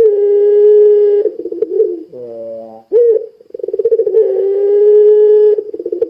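Puter pelung dove cooing loudly: each phrase opens with a fast stutter and runs into a long, held, slightly falling coo. Two such phrases come about three seconds apart, with a short lower note between them.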